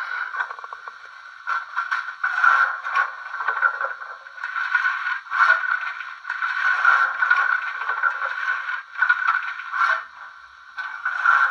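Märklin H0 model steam locomotive and passenger coaches running on the track, a scraping rattle of wheels on rails that swells and falls in loudness.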